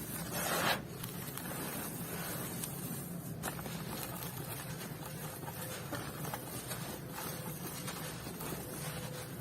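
Dry, dusty clumps crumbling, with one louder crumbling rush about half a second in, then faint scattered crackles over a steady low hum.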